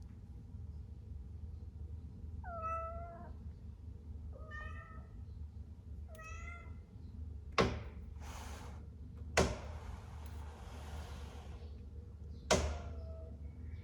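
A cat meowing three times, short calls about two seconds apart. Then three sharp knocks, a second or more apart.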